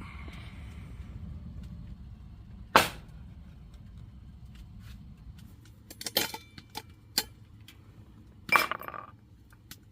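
Cookware and utensils clinking and knocking: one sharp clink about three seconds in, a run of lighter clicks a few seconds later and another clink near the end, over a low steady rumble that dies away about halfway.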